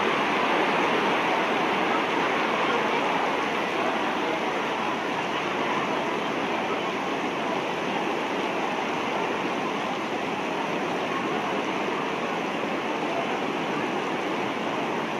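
Heavy rain, a steady rushing hiss, pouring off the edge of a tent canopy in streams and splashing on the ground.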